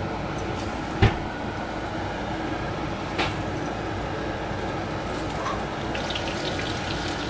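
Panko-crumbed cuttlefish pieces frying in shallow hot oil in a pan, a steady sizzle that picks up small crackles near the end. Metal tongs click sharply against the pan about a second in, and again near three seconds.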